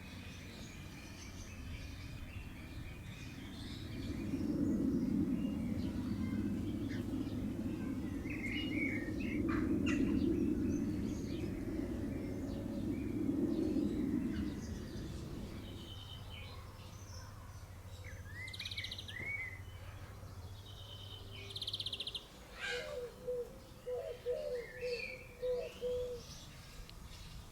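Small garden birds chirping and singing in short scattered phrases over a low background rumble that swells in the middle. Near the end comes a run of short, low, pulsed notes.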